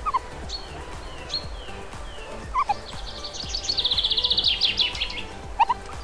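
Songbirds singing: scattered short chirps and downward-sliding whistles, with a fast trill lasting about two seconds in the middle.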